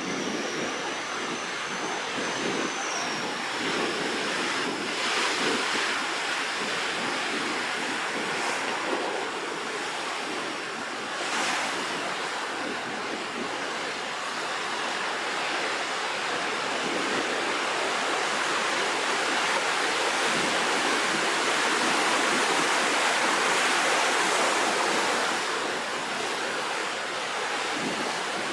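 Rough sea surf before a typhoon: waves breaking and washing in a continuous rush, with wind on the microphone. It swells louder about two-thirds of the way through.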